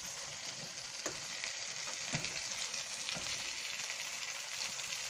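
Chopped tomatoes and green chillies sizzling steadily in oil in a steel pan over a low flame, with three light knocks of a stirring spoon against the pan, about a second apart.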